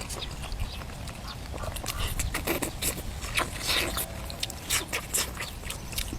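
Close-up mouth sounds of someone eating braised duck and vegetables: wet chewing, crunching and repeated lip smacks, with a brief louder smack just under four seconds in.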